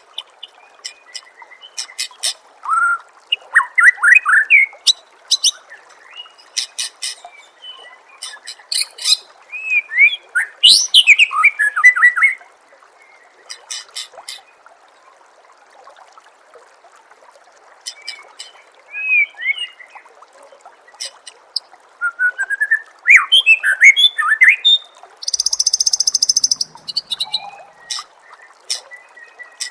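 Recorded songbird song used as 'masteran' training audio for white-rumped shamas: quick sharp chips and whistled notes that slide up and down, coming in bursts with short pauses, and a harsh buzzy trill near the end. A faint steady trickle of water runs underneath.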